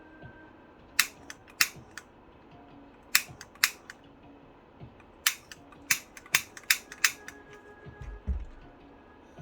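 Sharp, uneven clicks and taps of small hard objects being handled, about a dozen of them, with a low thump near the end.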